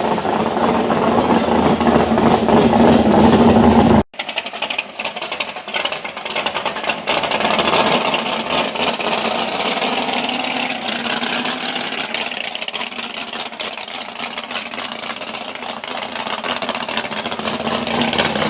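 A car engine running at a steady idle, with a steady low hum. About four seconds in it cuts off abruptly, and a hissy outdoor background with little low end follows.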